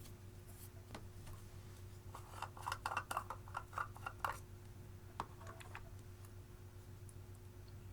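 Clear slime being worked by hand, giving a quick run of sticky crackles and small pops for about two seconds, starting about two seconds in, followed a second later by a single click.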